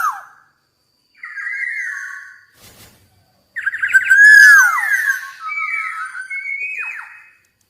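Black-naped oriole singing: fluting whistled phrases of sliding, mostly falling notes. There is a short phrase about a second in and a longer one from about halfway, with quiet gaps between them.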